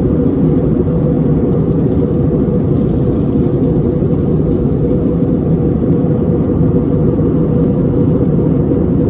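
Steady engine and airflow drone inside an Airbus A321 passenger cabin, a loud even rush with a constant hum running through it.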